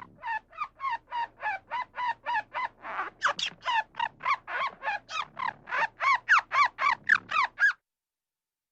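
A bird calling in a fast, even series of about thirty short, harsh notes, each falling in pitch, some three to four a second, then stopping.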